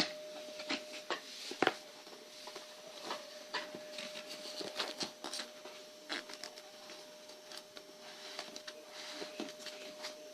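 Model train pack's cardboard and plastic packaging being handled and opened: irregular light clicks, taps and rustles.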